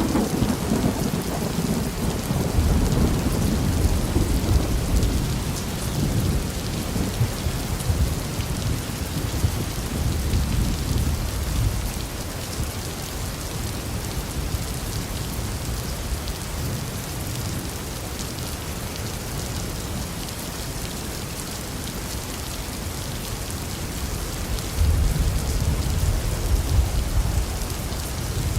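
Steady rain falling, with thunder rumbling low at the start, briefly again about ten seconds in, and once more near the end.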